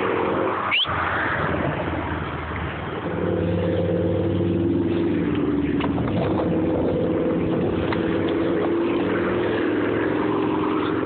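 A car engine running steadily close by, a low, even hum that comes up about three seconds in and then holds.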